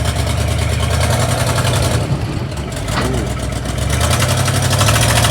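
A truck engine running steadily under load as the food truck is hauled up onto a trailer, getting louder about four seconds in.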